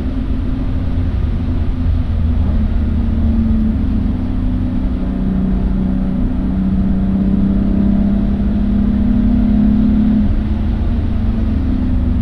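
Car engine running under steady load with a low rumble from the drive. Its note shifts about two and a half seconds in and drops about ten seconds in.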